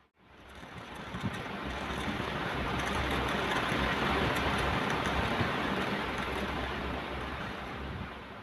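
Ocean waves washing on a shore: a single surge of surf hiss that swells up from near silence, peaks about halfway through and ebbs away near the end.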